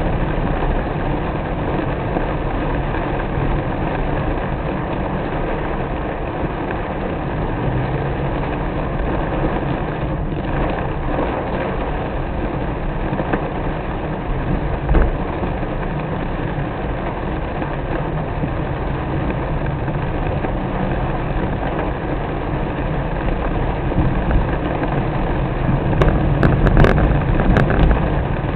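A car driving in the rain: a steady engine hum under continuous road and rain noise, with a few sharp clicks near the end.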